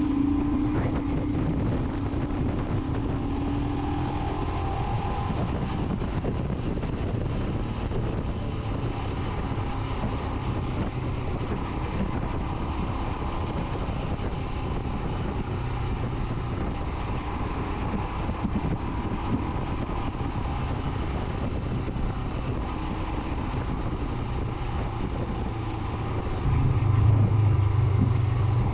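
Royal Enfield Himalayan's single-cylinder engine running steadily while riding, with wind buffeting the microphone. Near the end the engine gets louder, as if under more throttle.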